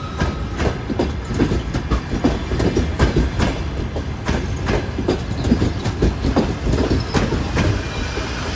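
Passenger train coaches rolling past at low speed, their wheels clacking over the rail joints in a quick, uneven run of knocks over a low rumble.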